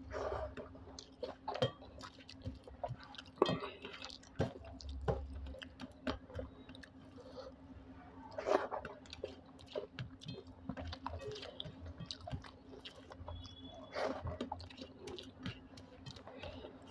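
Close-up chewing of egg curry and rice eaten by hand: wet, irregular mouth smacks and clicks, over a steady low hum.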